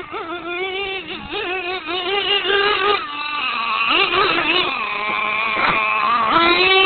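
Small nitro R/C monster truck engine running at high revs, its high-pitched whine rising and falling as the throttle is worked, with several quick pitch swoops in the middle.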